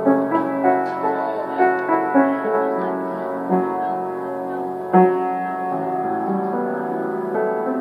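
Piano playing: notes and chords struck every half second or so and left to ring, with a louder struck chord about five seconds in.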